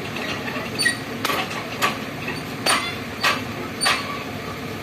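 Repeated sharp knocks, about six spaced roughly half a second apart, over a steady rumble.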